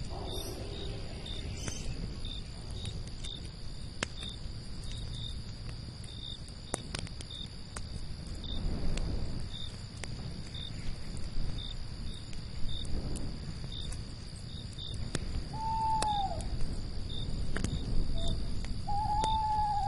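Night ambience: crickets chirping steadily and high over a campfire crackling with scattered sharp pops and a low rumble. An owl hoots twice near the end, each hoot a short arched call.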